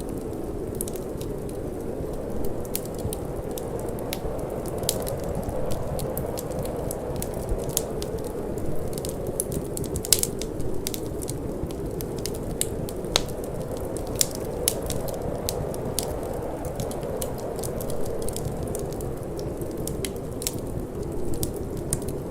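Wood fire crackling with frequent irregular sharp pops, the loudest about ten seconds in, over a steady low rush of wind.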